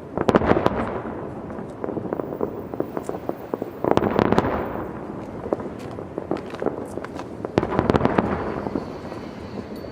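Aerial fireworks display: shells bursting in three heavy volleys, near the start, about four seconds in and about eight seconds in, with scattered sharp cracks and crackling between them.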